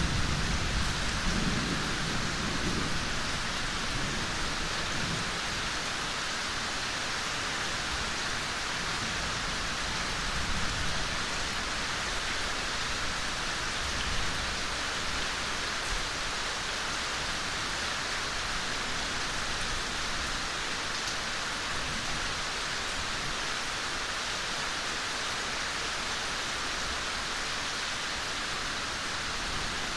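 Steady gentle rain falling in a forest, an even hiss of many drops. A low rumble sits under it during the first few seconds and briefly again around ten seconds in.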